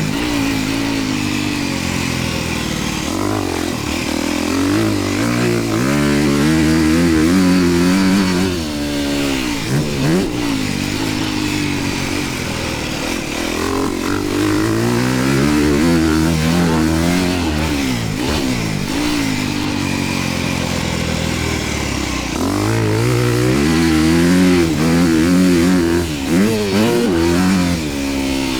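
Dirt bike engine being ridden hard, revving up and dropping off again and again as the rider accelerates through the gears and backs off for corners.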